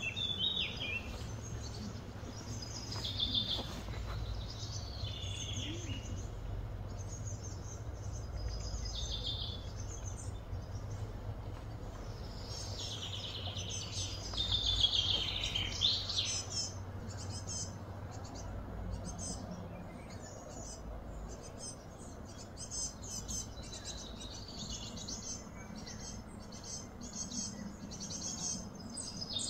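Birds chirping and calling in scattered bursts of short, high trills, over a steady low hum.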